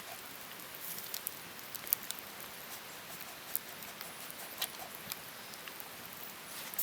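Rain pattering on a surface: a steady hiss with irregular sharp ticks of single drops scattered through it.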